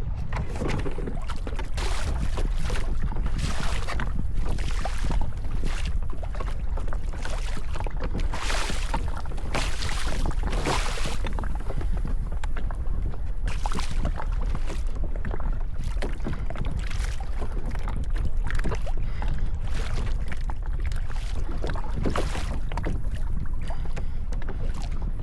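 Wind buffeting the microphone with a steady low rumble, and water rushing and splashing against a kayak's hull every second or two.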